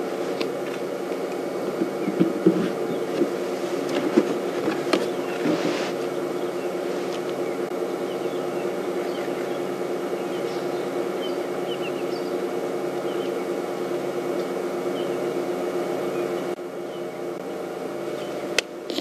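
Safari game-drive vehicle's engine running at a steady idle, a constant-pitched drone. There are a few knocks in the first several seconds and faint bird chirps about halfway through.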